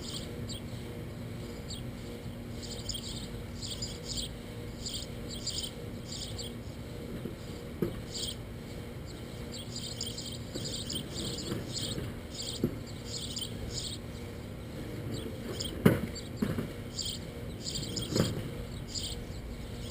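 Insects chirping outdoors in short repeated pulses, with a few scattered knocks, the loudest about sixteen seconds in and another about two seconds later.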